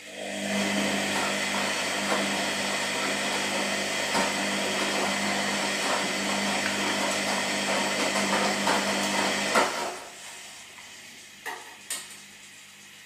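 Washing machine motor switching on and running with a steady hum and rushing noise, cutting off suddenly after about ten seconds; two short clicks follow near the end.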